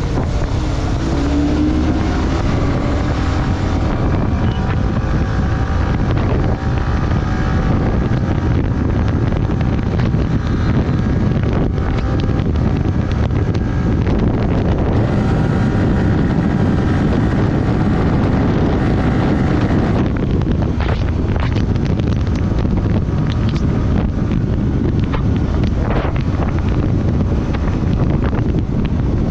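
Wind buffeting the microphone of a moving motorcycle, with the engine running underneath; its note rises briefly about a second in as the bike accelerates.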